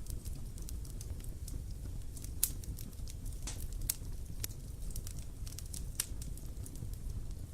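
Wood fire burning, with irregular sharp crackles and pops over a low steady rumble; the loudest pops come a little after two seconds, around four seconds and about six seconds in.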